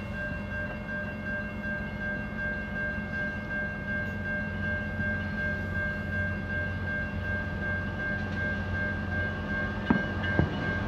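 An approaching freight train's diesel locomotives rumble in the distance under the steady, repeating ring of a grade-crossing warning bell. Two sharp knocks come near the end.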